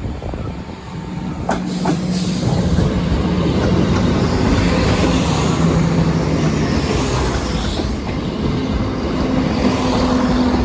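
A diesel train passing close by, its engine tone and wheel-on-rail noise growing loud in the first few seconds and then holding steady. Two sharp wheel clacks come about a second and a half in.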